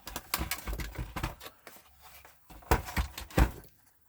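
Clicks and knocks of PS4 console parts being handled while the optical drive is swapped, with three louder knocks near the end.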